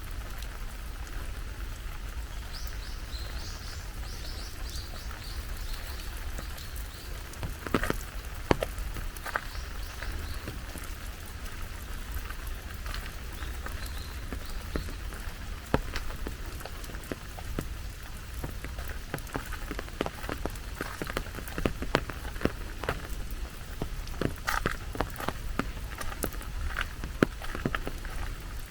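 Steady rain falling, with drops striking close by as sharp scattered taps from about eight seconds in. A short run of high chirps sounds near the start.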